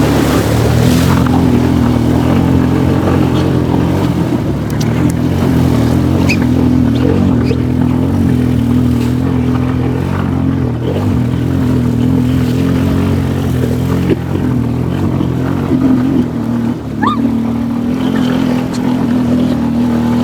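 ATV engine running with a steady drone as the quad is driven across a shallow river.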